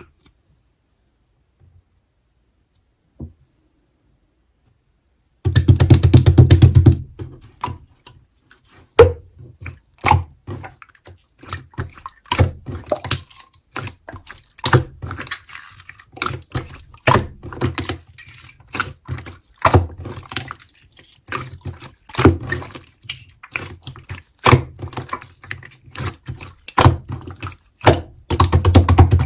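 Slime being pressed and squished by hand, making wet, sticky pops and clicks at an irregular pace. After a few seconds of silence it opens with a dense run of crackling.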